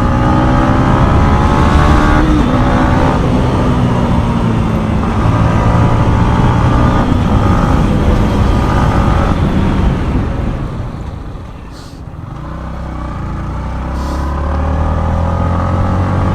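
Yamaha MT-15's single-cylinder engine pulling hard through the gears, its pitch rising and breaking at each shift. About ten seconds in it eases off and falls quieter, then picks up again near the end.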